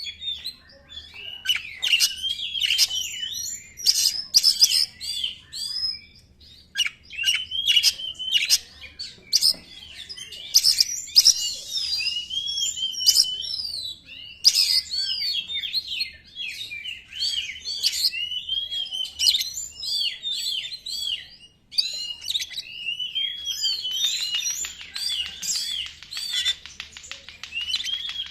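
Oriental magpie-robin (kacer) singing a fast, nearly nonstop song of varied whistles, slurred notes and harsh chatter, in the frenzied 'konslet' style, with only a couple of brief pauses.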